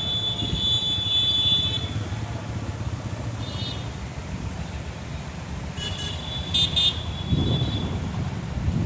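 Wind buffeting the microphone as a steady low rumble. A high-pitched tone sounds for the first two seconds, and short high chirps come twice more, near the middle and later on.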